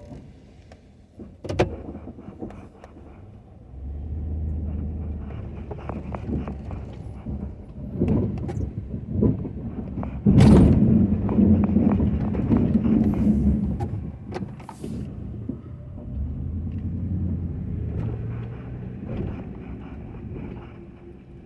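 Ford F-250 pickup engine running and pulling up in stretches while plowing snow, with scattered knocks. A sharp knock about halfway through is followed by a louder, rougher stretch.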